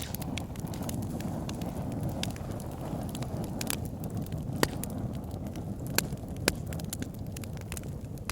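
Campfire burning: a steady low rush of flames with scattered sharp crackles and pops, the loudest few coming about halfway through and again a little later.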